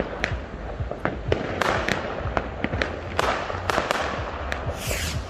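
Fireworks going off: many sharp bangs and crackles at irregular intervals, a few a second, some followed by a short hiss, with a brighter hissing burst near the end.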